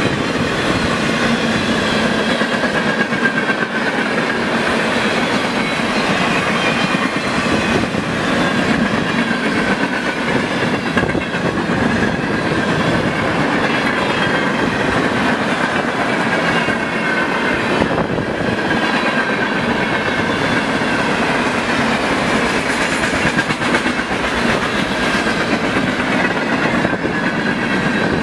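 A freight train's cars (boxcars, covered hoppers) rolling past at speed: a loud, steady rumble and clatter of steel wheels on the rails, with a faint wavering high squeal over it.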